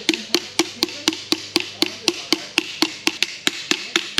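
Rapid, very even knocking, about four strokes a second, each with a short ring.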